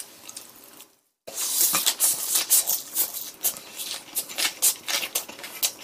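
Close-miked chewing of a mouthful of fried pork cutlet with side dishes: irregular wet crunching clicks. The sound cuts out completely for a moment about a second in.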